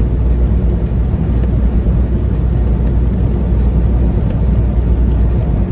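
Steady low rumble of a semi-truck's engine and tyre noise, heard from inside the cab while driving.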